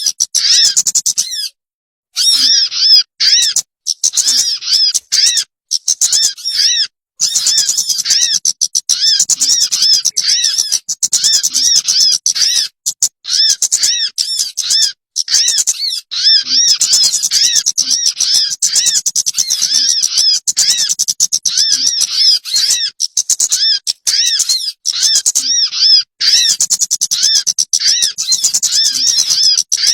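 Bird-lure (pikat) recording of a small songbird calling: quick chirps repeated several times a second, each note rising and falling, with short abrupt gaps where the recording cuts out.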